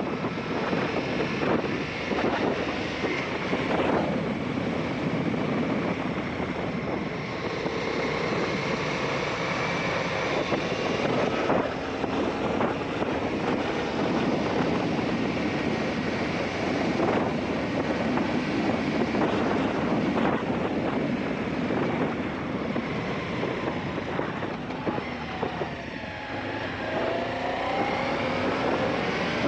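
Aprilia Shiver 750's V-twin engine running as the motorcycle is ridden, buried in heavy wind noise on the microphone. The engine pitch rises and falls with the revs, most clearly near the end.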